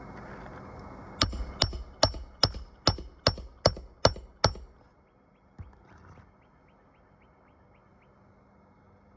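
A hammer driving a nail: nine quick, evenly spaced blows, about two and a half a second, then one lighter tap.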